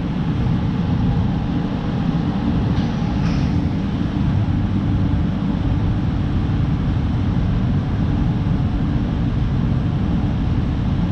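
A vehicle engine running steadily, a continuous low rumble with no change in pace.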